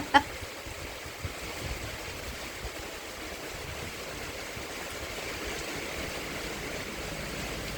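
Heavy rain pouring down steadily, a constant hiss of falling and running water.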